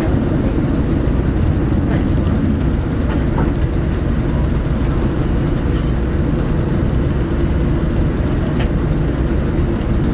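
Diesel railcar running steadily along the track: a constant low rumble of engine and wheels, with a few light clicks and a brief high hiss about six seconds in.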